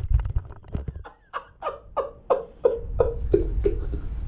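A person laughing in a run of about eight short falling "ha" syllables, about three a second, dying away towards the end.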